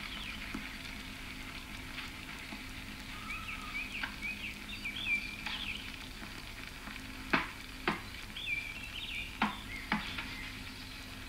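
Birds chirping in short, quick calls over a steady crackling hiss, with a few sharp clicks or snaps in the second half.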